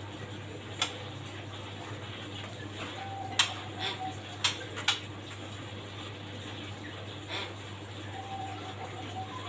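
A handful of sharp clicks and taps, about five spread irregularly, over a steady low hum; a faint short even tone sounds twice, once near the middle and once near the end.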